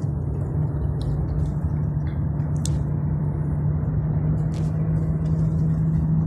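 Vehicle engine running with a steady low hum, with a few faint clicks over it.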